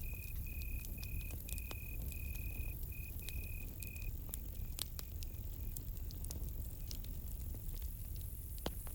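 Campfire crackling with scattered sharp pops over a low rumble. A cricket chirps in short pulses at one steady high pitch, fading out about four seconds in.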